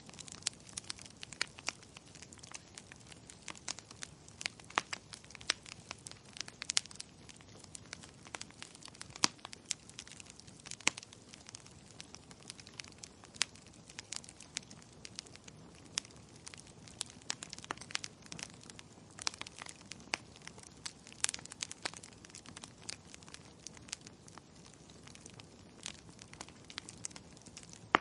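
Wood fire in a fireplace crackling, with frequent irregular pops and snaps over a soft steady hiss of burning logs.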